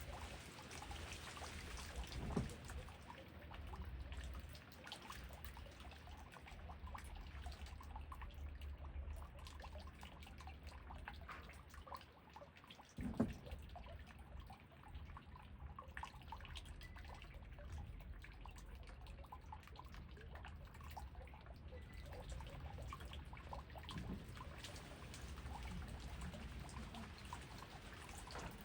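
Rain falling, with scattered drops and dripping water and a steady low rumble beneath; two heavier drips or knocks stand out, one a couple of seconds in and a louder one about halfway through.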